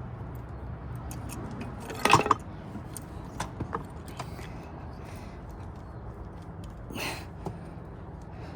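Hands working a rubber intake boot onto a motorcycle carburetor, giving scattered small knocks and clicks of parts and tools being handled. The loudest is a short clatter about two seconds in, and there is a brief scrape about seven seconds in.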